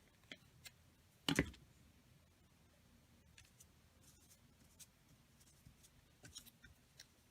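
Hands working with paper and craft materials on a tabletop: light rustles and small taps, with one sharp knock about a second in and a quick run of taps near the end.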